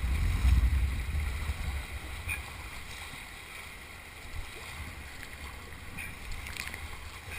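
River kayaking ambience: a low wind rumble on the microphone, loudest in the first second or two, over a steady hiss of moving river water, with a few faint knocks.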